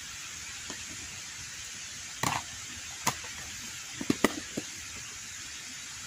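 Steady hiss of water, broken by a few sharp knocks and clicks a little over two seconds in, at three seconds, and in a quick cluster around four seconds in.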